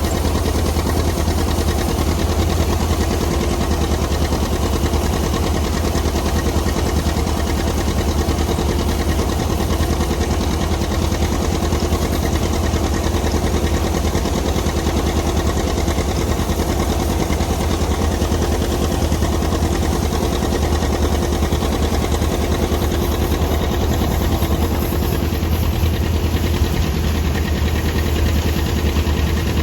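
John Deere 730 tractor's two-cylinder diesel engine running steadily at idle.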